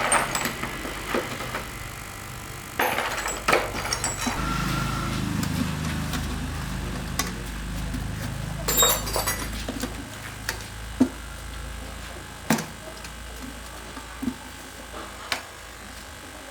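Scattered metallic clinks and knocks of work on a machine, with a low rumble that starts about four seconds in and dies away after several seconds.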